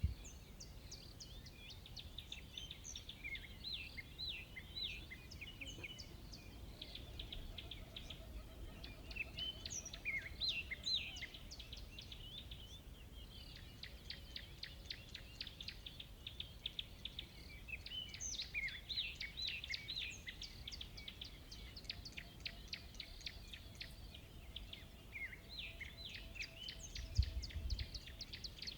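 Several wild birds chirping and trilling continuously in quick, high calls, over a quiet low outdoor background, with a brief low rumble near the end.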